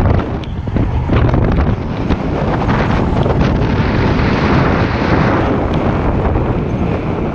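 Loud, gusty wind rushing over the microphone in paraglider flight, buffeting and fluttering throughout.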